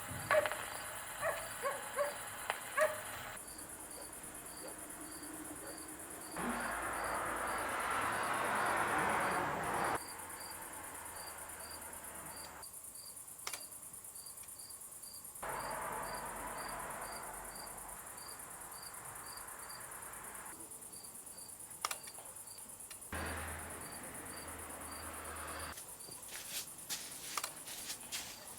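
Crickets chirping at a steady rate of about two chirps a second over a constant high-pitched insect buzz. A few short pitched calls sound in the first three seconds, and stretches of soft rushing noise come and go abruptly.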